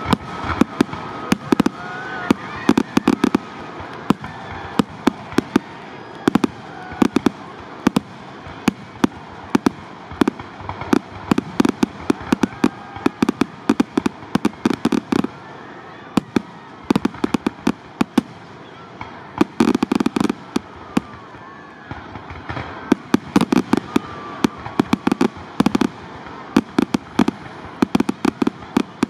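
Fireworks finale: aerial shells bursting in a rapid string of sharp bangs, bunching into dense volleys several times.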